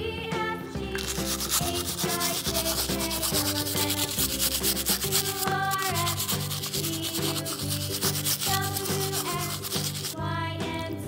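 Stiff bristle brush scrubbing a muddy die-cast toy car in rapid back-and-forth strokes. The scrubbing starts about a second in and stops near the end, over background music.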